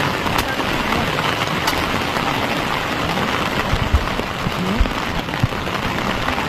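Steady rain falling on surfaces, a dense even hiss, with a few sharper drop hits standing out now and then.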